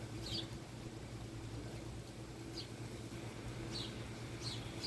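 Birds chirping: a handful of short, high calls that fall in pitch, scattered a second or so apart, over a steady low hum.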